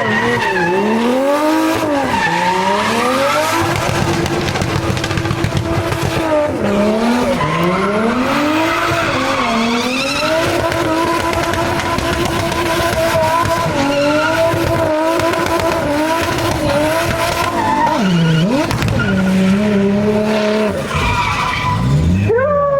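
Turbocharged 1JZ inline-six in a drifting Scion FR-S, revving up and down again and again and holding steady revs for a few seconds at a time, with tires squealing under it.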